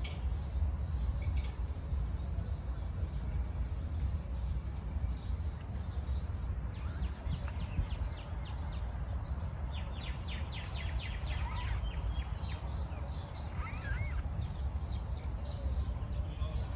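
Small birds chirping in quick short notes, with a fast run of chirps about ten seconds in and a brief curling whistle a little later, over a steady low rumble.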